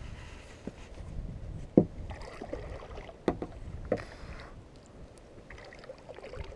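A few sharp knocks against a kayak, the loudest about two seconds in, with short splashy hiss between them.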